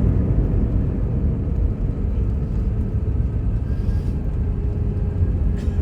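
Steady low rumble inside an Airbus airliner's cabin as it rolls along the ground after landing, with a faint steady hum coming in near the end.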